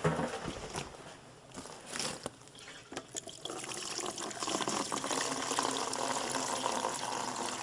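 Warm diesel fuel being poured from a metal pan into a plastic container: a few knocks of handling at first, then a steady trickling pour from about three and a half seconds in.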